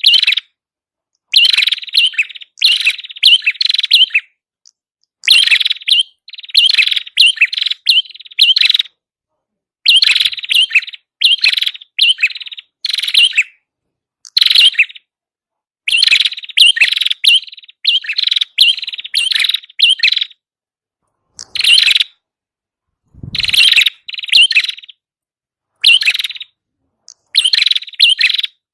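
Prenjak kepala merah song: loud, fast bursts of high chirping and trilling phrases, grouped in clusters with abrupt gaps of dead silence between them. A low thump comes about 23 seconds in.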